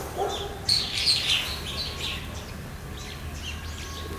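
Small birds chirping and calling, a rapid run of short high notes that is loudest about a second in and then thins to scattered calls, over a faint low steady rumble.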